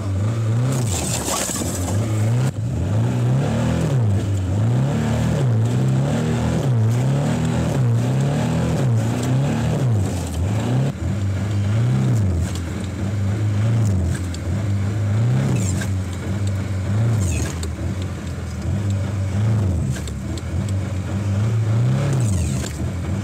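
Lada car engine revving up and dropping back again and again, about once a second, as the driver tries to drive the car out with its wheels frozen into ice.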